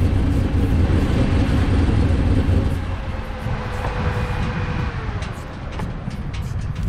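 Shelby GT500's V8 running loud under throttle, then backing off about three seconds in, the revs falling away as it settles into a lower, quieter run.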